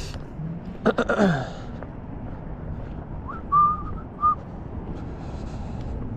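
A person whistling two short notes at the same pitch, the first longer than the second, about three and a half seconds in. A couple of sharp clicks come about a second in, over a steady low background hum.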